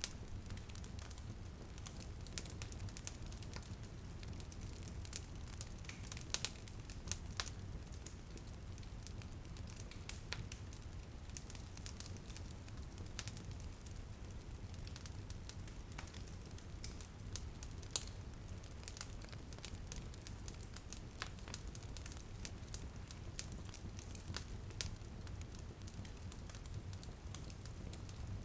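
Wood fire crackling in a fireplace, with irregular sharp pops over a steady low rumble of the flames, and light rain pattering on a window beneath.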